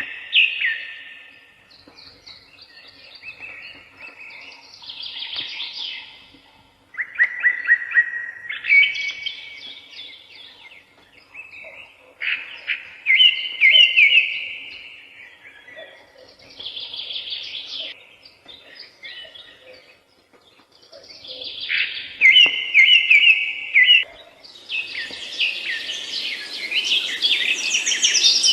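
Songbirds singing and chirping in short trilled phrases, one every few seconds with brief pauses between. Near the end a steady hiss rises beneath the song.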